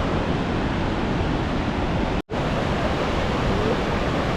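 Steady rushing of the Rhine Falls, a dense even noise of falling water, broken by a split-second gap of silence a little over two seconds in.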